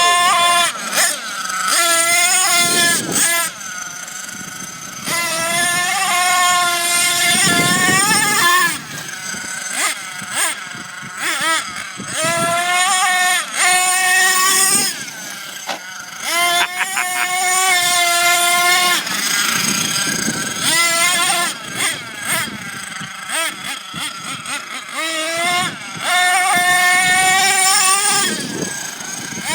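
Thunder Tiger MTA4 S28 RC monster truck's small nitro glow engine, revving hard in repeated bursts: a high-pitched whine that climbs and falls again every few seconds, easing off to a quieter idle in between.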